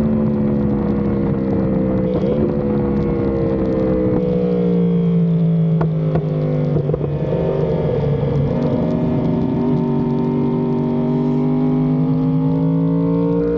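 Yamaha YZF-R1M superbike's crossplane inline-four engine through an SC Project exhaust, running hard under load. The pitch steps a couple of times in the first seconds, sags slowly through the middle as the bike slows, then climbs steadily again as it accelerates.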